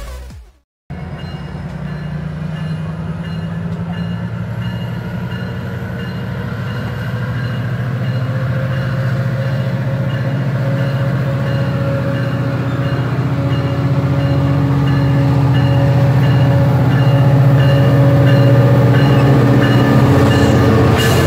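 A commuter train's diesel locomotive pulling into the station, its engine hum growing steadily louder as it approaches and draws alongside. The sound starts suddenly about a second in.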